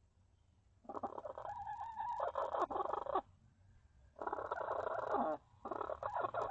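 Hen calling loudly in three bouts of rapid squawks and clucks, the first about two seconds long and the next two about a second each, after a quiet first second. The squawking is typical of a hen fussing at another hen on the nest.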